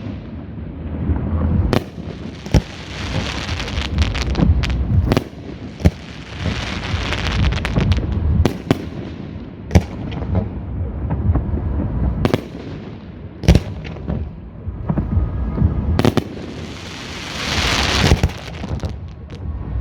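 Aerial fireworks display: shells bursting with sharp bangs every second or so over a continuous low rumble, with two long crackling stretches.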